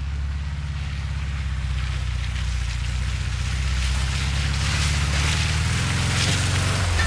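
Volkswagen Vanagon engine running steadily at low speed with a low drone. A hiss grows louder over it about four seconds in.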